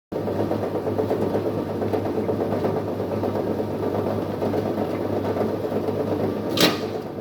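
Chicken-meat shredding machine running steadily with a constant motor hum, with one sharp knock near the end.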